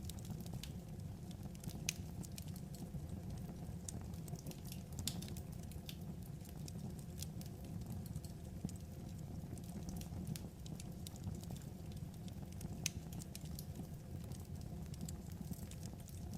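Wood fire crackling: scattered sharp pops and snaps at irregular intervals over a steady low rumble.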